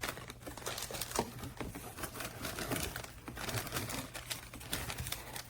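Plastic packaging crinkling and rustling as parts are handled, with many irregular small clicks and taps.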